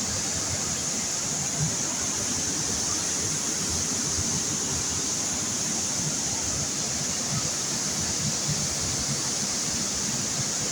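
A large waterfall's water pouring steadily, an unbroken rushing noise.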